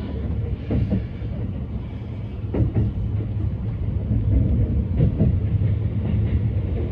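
Running noise inside a moving E257 series electric limited express train: a steady low rumble of wheels on rail heard from the passenger car.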